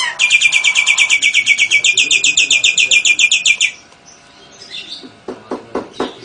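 A caged songbird's fast, high trill of about ten notes a second, held for about three and a half seconds. Near the end come sharp clicks, about four a second.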